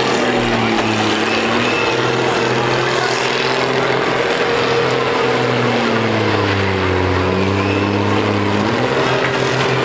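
Diesel engines of combine harvesters running hard in a demolition derby, their engine note sagging and recovering about six to nine seconds in.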